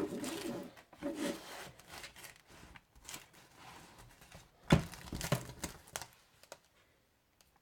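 Irregular rustling and crinkling of things being handled, with scattered clicks and one sharp knock a little under five seconds in, dying away near the end.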